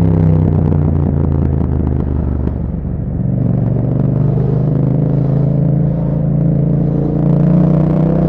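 2021 Yamaha MT-07's 689 cc parallel-twin engine running through an Akrapovic exhaust, dropping in pitch over about the first second as the throttle closes, then running steadily at low revs, with the revs starting to climb near the end.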